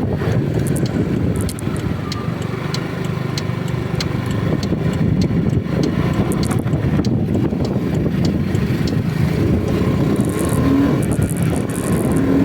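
Car on the move in the rain: steady engine and tyre noise on a wet road, with light regular ticks about one and a half times a second.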